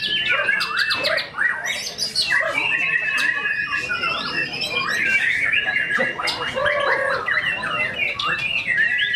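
White-rumped shama (murai batu) singing a loud, fast, unbroken run of varied whistles, trills and sharp clicks, packed with mimicked phrases.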